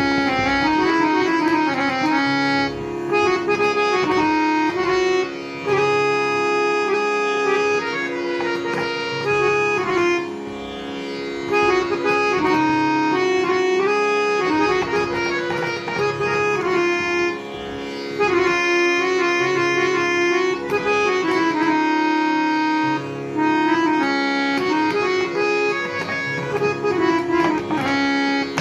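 Harmonium playing a melody in phrases over one steady held drone note, the reeds sounding continuously with brief dips between phrases.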